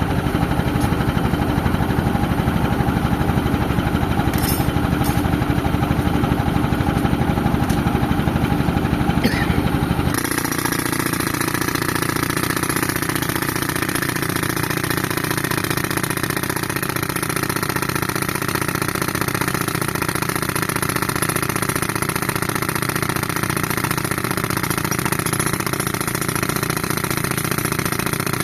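Tractor engine running steadily under load while driving an air compressor. About ten seconds in the sound changes abruptly, losing much of its low rumble, and then stays steady.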